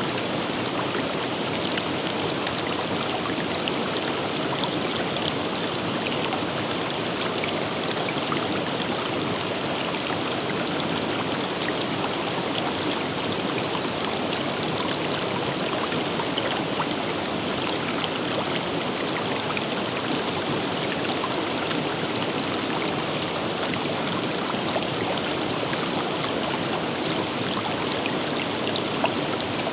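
River water flowing over rocks: a steady rushing with small splashes and trickles throughout.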